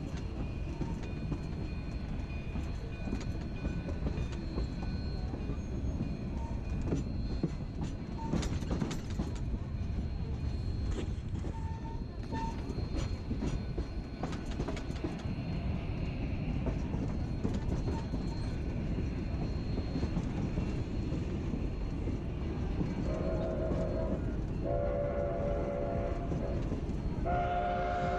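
Narrow-gauge steam train rolling along the track, heard from onboard: a steady low rumble with scattered clicks and rattles from the cars. About five seconds before the end the steam locomotive's whistle starts blowing in separate blasts, a short one and then longer ones, the kind of signal sounded for a road crossing.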